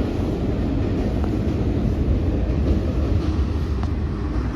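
Long CSX freight train's cars rolling past on the rails: a loud, steady rumble, with a few faint clicks near the end.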